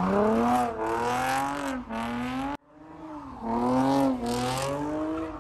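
A car's engine revving hard while drifting, its pitch swinging up and down as the throttle is worked. The sound cuts out abruptly a little past halfway, then the same wavering revving comes back.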